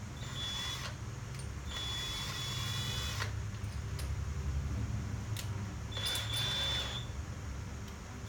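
DeWALT DCD700 cordless drill's brushless motor run in three short bursts, each a steady high whine, the longest about a second and a half, the bit being fitted before hammer drilling.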